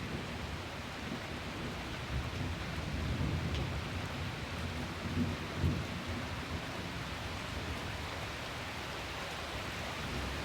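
Heavy rain falling steadily in a thunderstorm, with a low rumble of thunder swelling through the middle few seconds.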